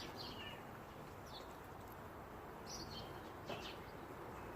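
Faint bird chirps, a few short calls scattered over low steady outdoor background noise.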